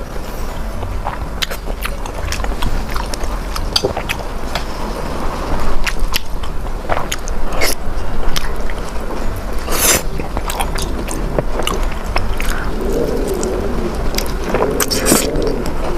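A person chewing and biting food close to the microphone. Short wet smacks and clicks of the mouth come scattered throughout, over a steady low hum.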